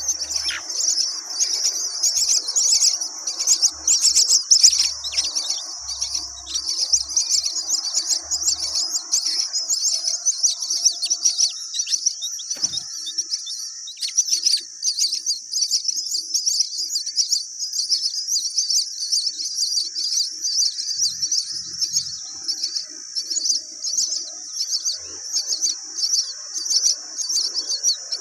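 Many birds chirping in a dense, unbroken chorus of rapid high-pitched notes.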